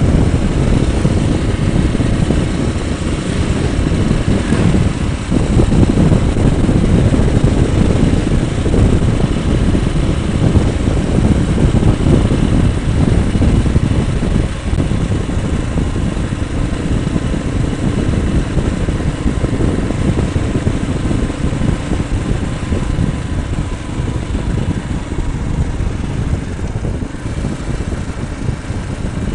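Motorcycle running at road speed, a steady engine drone under a continuous rush of wind and road noise.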